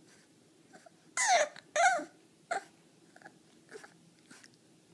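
A pet animal gives two short, loud, high-pitched wavering cries about a second in, each falling in pitch, followed by a few fainter short sounds.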